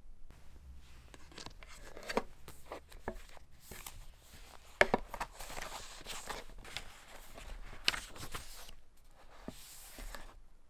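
Close-up handling sounds: irregular clicks and knocks mixed with rustling, the sharpest knock about five seconds in.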